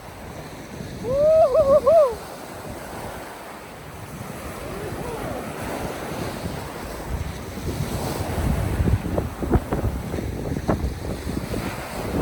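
Strong wind blowing over the microphone, with surf breaking on the beach behind it. About a second in, a short wavering pitched call rises and falls for about a second and is the loudest sound. From the middle on there are irregular low bumps of wind on the microphone.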